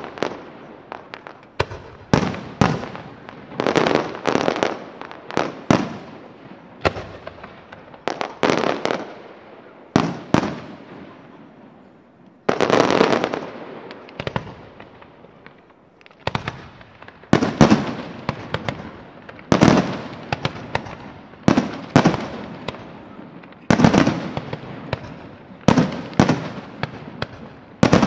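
Fireworks display: aerial shells bursting one after another, many sharp bangs in quick succession, each trailing off in an echo. The bangs come thickest and loudest in clusters in the second half.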